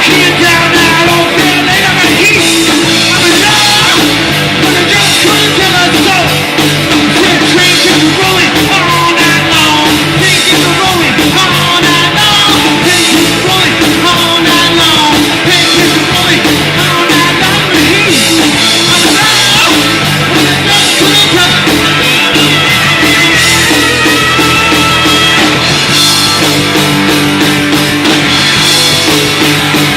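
A live rock band playing loud, fast hard rock: drum kit, electric guitars and bass, without a break.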